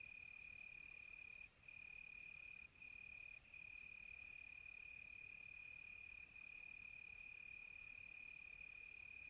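Crickets trilling at night: one steady high trill, broken by a few short gaps, over a faint high hiss of more insects.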